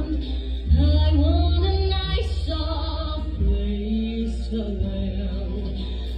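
A musical-theatre song: a voice singing over a deep, sustained bass accompaniment.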